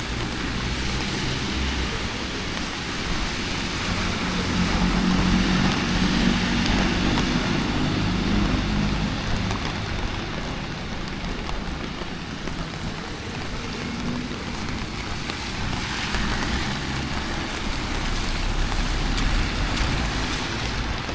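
Steady rain hiss on a wet city street with passing motor traffic; an engine rumble swells about four to nine seconds in and again near the end.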